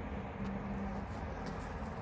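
Steady low background hum and room noise, with two faint clicks about a second apart.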